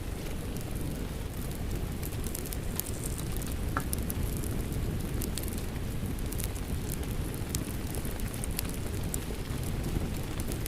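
Wood fire crackling, with frequent small snaps and one stronger pop about four seconds in, over a steady wash of rain.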